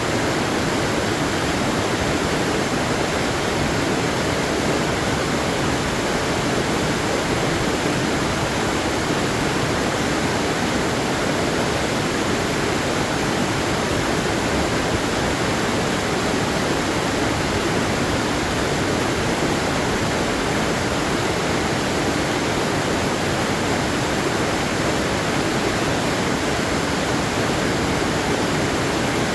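Waterfall: a steady, unbroken rush of falling water with no changes or separate splashes.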